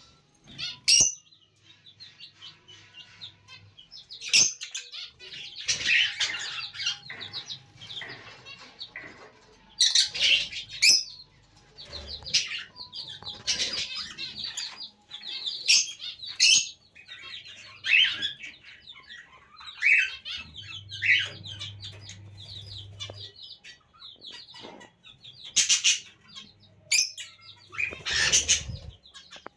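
Lovebirds chattering in rapid high chirps, with loud sharp shrieks every second or two.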